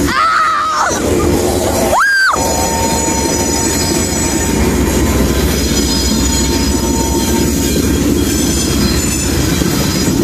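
Train cars rolling past close by: steel wheels rumbling and clattering on the rails, with a steady high squeal of wheels against rail.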